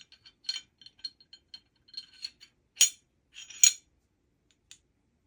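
Light metallic clicks and clinks of Glock 19 pistol parts (slide and barrel) being handled during reassembly, with two louder, sharper clinks past the middle.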